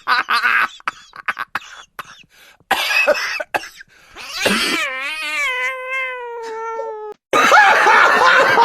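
A cat meowing: one long, drawn-out meow that wavers at first and then holds steady for nearly three seconds. Short scattered sounds come before it, and a loud noisy burst follows near the end.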